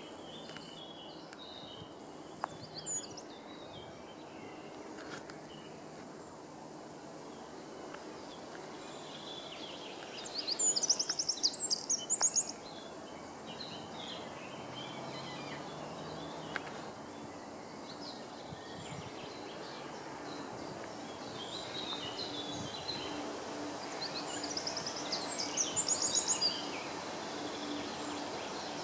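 Small birds singing over steady outdoor background noise: scattered high chirps, with two louder bursts of rapid notes, about ten seconds in and again near the end.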